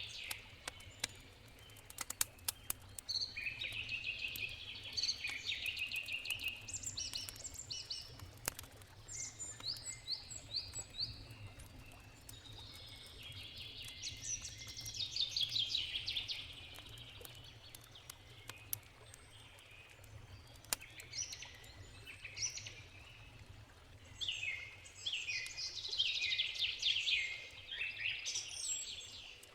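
Songbirds singing and trilling on and off, over the sharp crackles and pops of a wood campfire, with a cluster of pops a couple of seconds in. A low steady rush of a river runs underneath.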